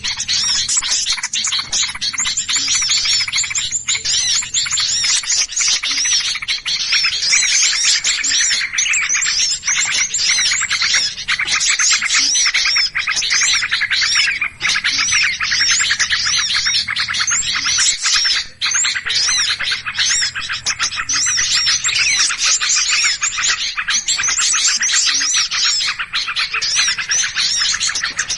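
A dense, unbroken chorus of many small songbirds chirping and twittering rapidly over one another: a bird-lure recording of noisy, agitated small birds.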